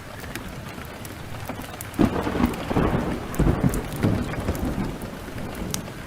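Heavy rain pouring steadily, with a clap of thunder breaking in about two seconds in and rumbling on for about three seconds before dying away. Sharp crackles from a wood fire are scattered through it.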